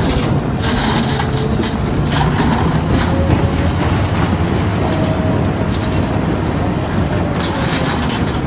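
Heavy construction machine working: a steady low diesel engine hum with metallic squeals and clanks over it.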